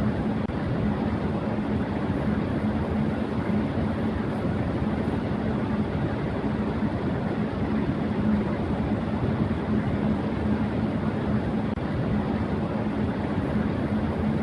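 Electric fan running steadily at high speed: an even rushing of air with a constant low hum from the motor.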